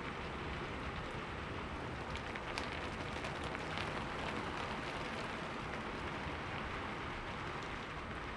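Steady rain falling, with scattered drops ticking against a window pane.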